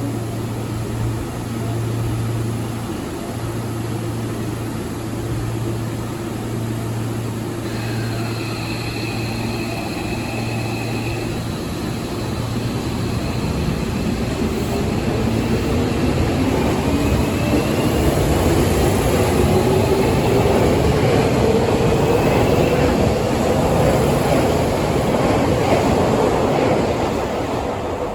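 Seibu 6000 series train, renewed with a Toshiba IGBT VVVF inverter and permanent-magnet synchronous motors, pulling away from a station. Over a steady low hum, high steady inverter tones start about 8 s in. Then a whine rises in pitch and grows louder as the train accelerates.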